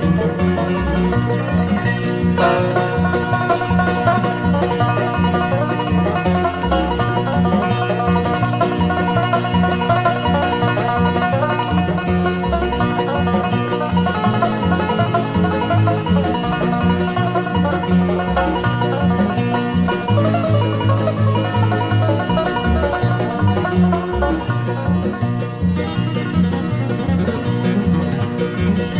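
Instrumental bluegrass with a fast five-string banjo lead over guitar, mandolin and bass, and a steady, even bass beat.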